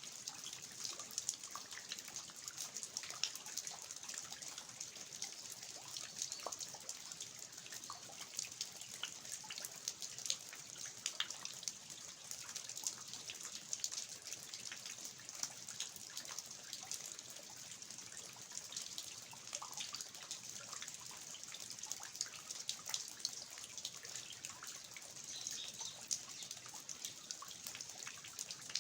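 Steady rain falling on a garden, with many small drips and taps of water falling from the eaves.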